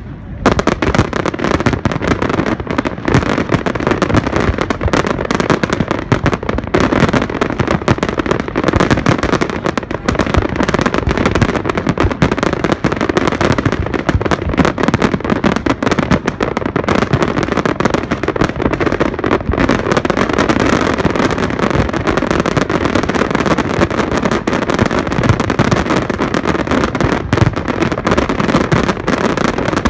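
Fireworks display in a rapid barrage: dense, continuous bangs and crackling with no pause between bursts.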